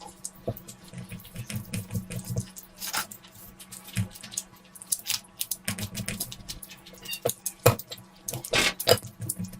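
Close-miked eating: wet chewing, lip smacks and clicks, with a few short slurps.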